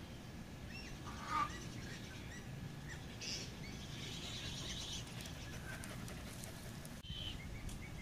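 Birds chirping and calling now and then, with one louder short call about a second and a half in and a buzzy trill around four to five seconds in.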